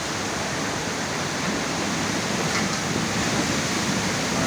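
Heavy rain pouring in a windstorm: a steady, dense hiss of rain and wind.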